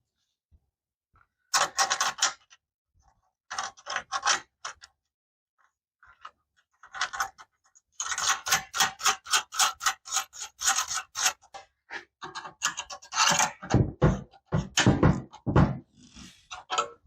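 Hand tools working on metal exhaust hardware: bursts of quick, rapidly repeated clicking and scraping strokes in several runs, then heavier metal clunks near the end.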